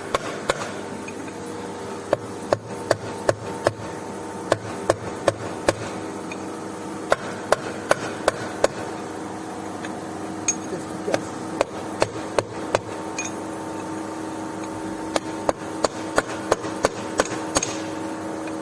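Hammer blows on a stuck lathe chuck to knock it loose for removal: runs of sharp strikes, about two or three a second, with a metallic ring that hangs on between them and a couple of short pauses.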